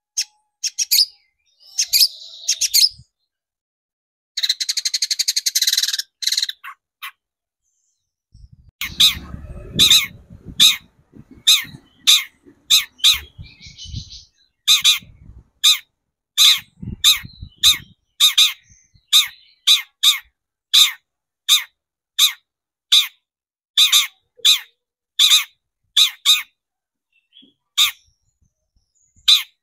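Long-tailed shrike singing: a harsh buzzy rattle, then a long run of short, sharp, high calls repeated about one and a half times a second.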